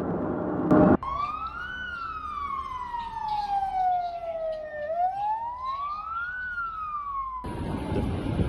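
Emergency vehicle siren in a slow wail, its pitch rising and falling twice. It starts about a second in and is cut off near the end, giving way to a steady noisy hiss.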